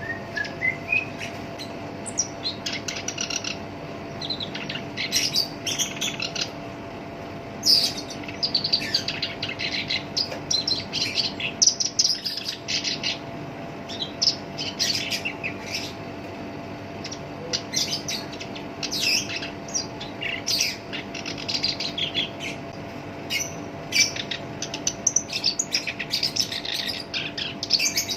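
Black-browed reed warbler singing in an active, harsh, chattering song: fast runs of short scratchy notes in phrases with brief pauses, opening with a short rising run of notes. A faint steady hum runs underneath.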